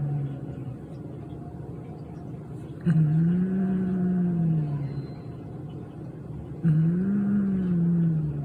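A domestic cat growling over food it has stolen: low, drawn-out growls like a motorbike, two of them, each starting suddenly and rising then falling in pitch, with the end of an earlier growl fading at the start.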